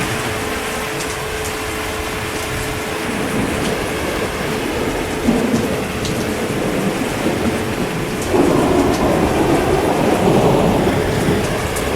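Steady heavy rain, with a low rumble of thunder rising about eight seconds in and lasting a few seconds.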